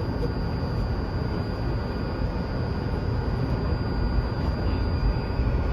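Inside a Tokyu 2020 series electric train car while it runs: a steady rumble of wheels on the rails, with a thin, steady high-pitched tone above it.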